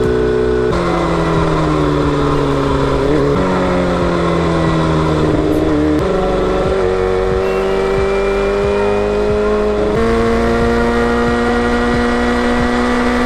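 Kawasaki Balius 250's inline-four engine running under way, heard from on board the motorcycle. Its pitch holds fairly steady, sags slowly and climbs again, and jumps abruptly several times where short clips are joined.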